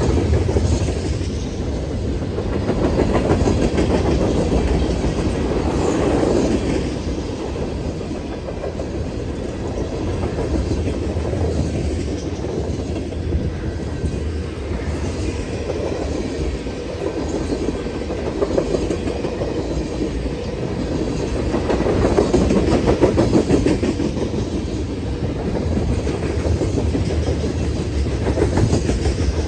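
Freight train cars rolling past at track side, the wheels clacking over rail joints in a steady rumble that swells and eases.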